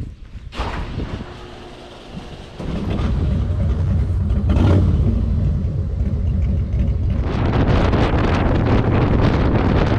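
Motorcycle engine running while riding, with wind rushing over the microphone. The engine noise comes up loudly about two and a half seconds in, and the wind noise grows stronger about seven seconds in.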